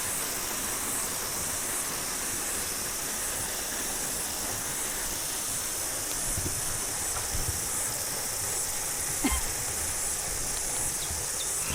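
Cicadas singing in chorus in the forest: a steady, high-pitched shrill hiss with a faint pulsing about once a second. A short light knock about nine seconds in.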